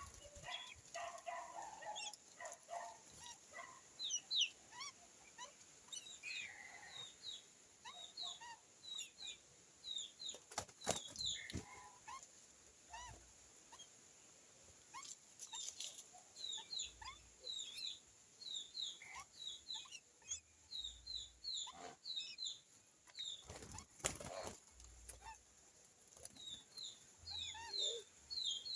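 A number of birds chirping and calling, mostly short, quick high chirps repeated over and over, with some lower calls near the start. A few sharp knocks or flaps come about ten seconds in and again near the end.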